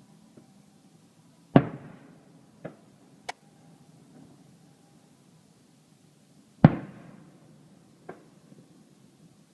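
Aerial fireworks shells bursting: two loud booms about five seconds apart, each trailing off and followed about a second later by a fainter bang, with a sharp crack between them.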